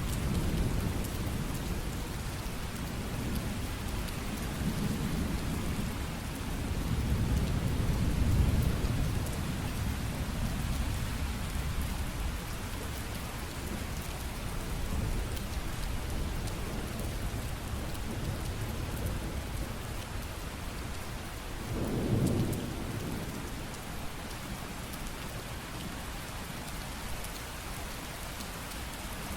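Steady heavy rain with rolling thunder: low rumbles swell and fade over the first half, loudest about eight seconds in, and a shorter rumble comes about 22 seconds in.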